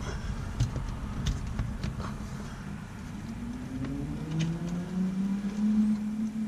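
A motor vehicle's engine note over a low rumble, rising slowly and steadily in pitch from about three seconds in, like a vehicle accelerating. A few light clicks in the first two seconds.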